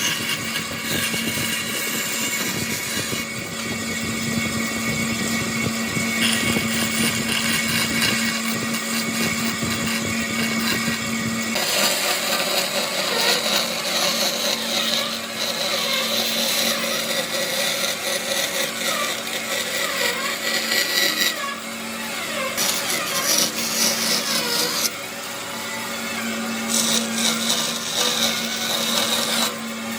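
Electric power tool running steadily as it works wood, its motor hum under a dense grinding noise, changing abruptly a few times.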